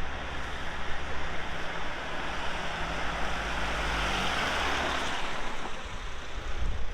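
Tractor engine running as a tractor passes close by, a steady low drone under a rush of noise that swells about four seconds in and then fades.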